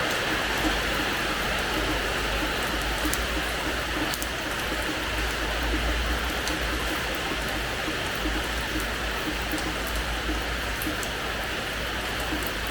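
Steady rain falling on a terrace floor: a continuous even hiss with sharp individual drop ticks scattered through it.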